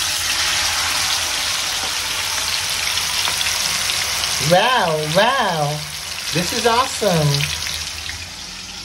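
Marinated chicken pieces shallow frying in hot oil, a steady loud sizzle that eases off toward the end. About halfway through, a person sings a few wavering notes over it.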